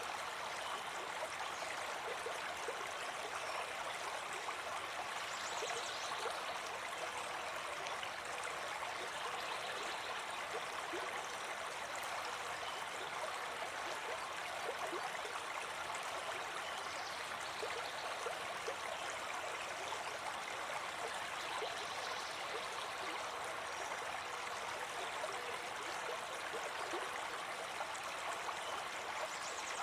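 A river or stream running over rocks, a steady rushing and gurgling of water with small splashes.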